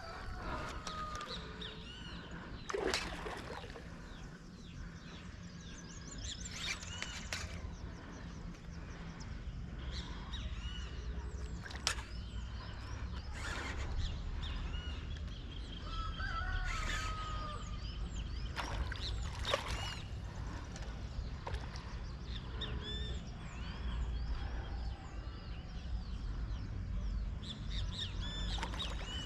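Scattered bird calls and chirps on and off over a steady low rumble, with a few sharp clicks or knocks.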